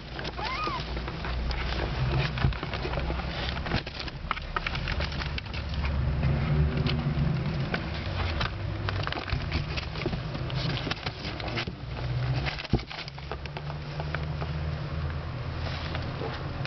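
Month-old kittens scampering and scuffling, with many small clicks and scratches from their paws and one brief high mew about half a second in, over a steady low rumble.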